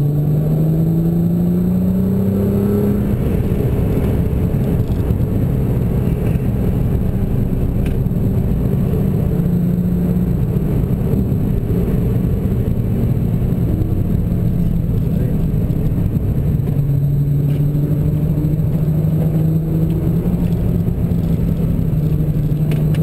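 Nissan GT-R's twin-turbo V6 heard from inside the cabin. Its note rises as the car accelerates over the first few seconds, gives way to a dense rumble with road noise, and settles into a steady engine note for the last several seconds.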